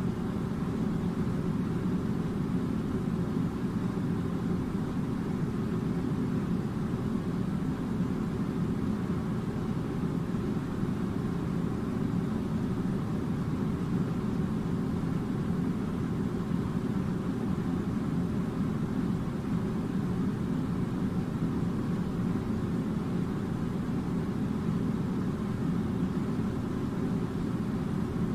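Steady low rumbling hum of an air conditioner blowing, unchanging throughout.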